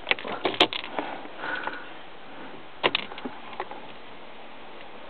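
A few sharp clicks and light handling knocks over a faint steady hiss, with a louder double click about three seconds in. This comes just before a car's engine is cranked.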